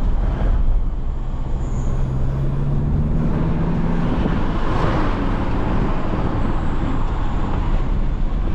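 Jeep Renegade diesel on the move, heard from inside the cabin: a steady engine and road rumble. The engine note climbs for a couple of seconds about two seconds in, and a broader swell of road noise follows about five seconds in.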